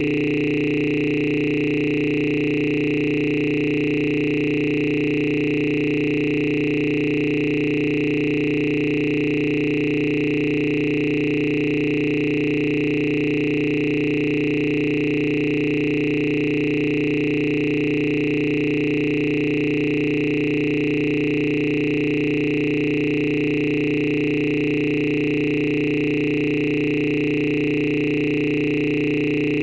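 Steady electronic drone: several pitches held together at a constant level, with no change or break.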